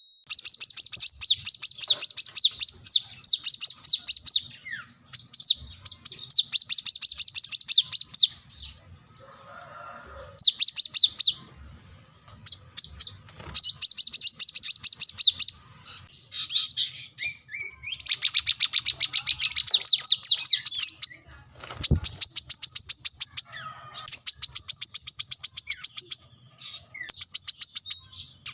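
Brown-throated sunbird singing vigorously: repeated phrases of rapid, high-pitched chattering notes, each phrase a second or two long, separated by short pauses.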